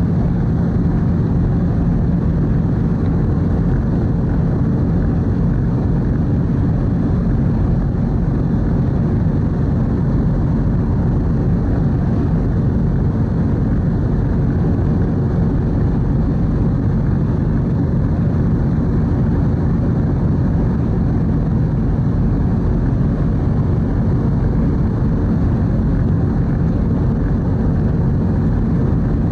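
The car ferry Kuniga under way: a steady low engine drone with a faint constant hum.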